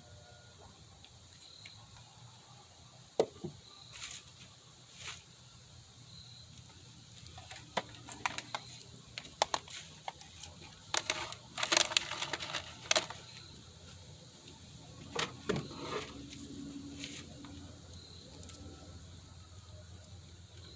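Scattered clicks, taps and knocks of tools and wood being handled on a workbench, busiest in a cluster of sharp clicks around the middle.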